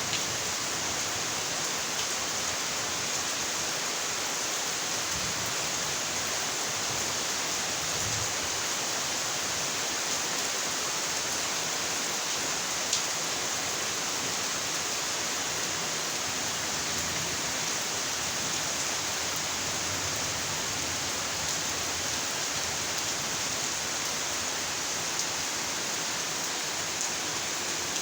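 Steady heavy rainfall, a constant even hiss with an occasional single drop tick standing out.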